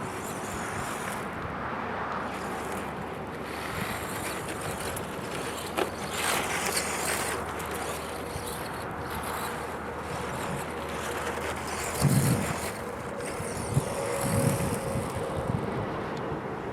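Battery-powered RC short course truck driving, a faint motor whine under wind noise on the microphone, with a few low knocks about twelve seconds in.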